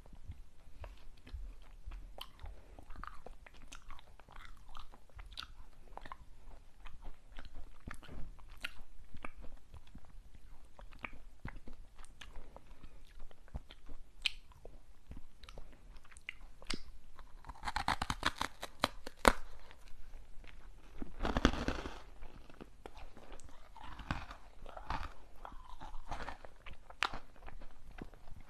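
Close-miked eating of hard and chewy sweets: crisp bites and chewing crackles scattered throughout, with a dense run of rapid crackles about two-thirds of the way in and a short, louder crunching burst a few seconds later.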